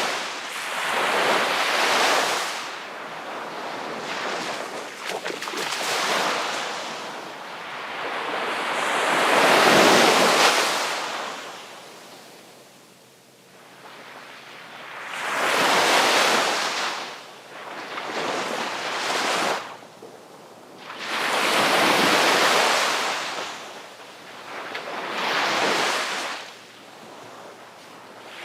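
Sea waves breaking on the shore and washing back, a fresh surge every few seconds, the largest about ten seconds in.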